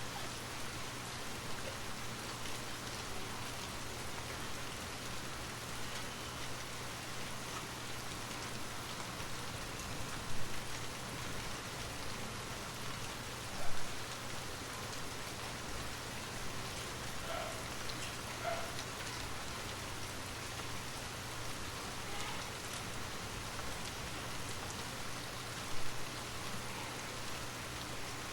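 Steady rain falling, an even hiss of drops over a low steady hum, with three louder single drips or taps spaced through it.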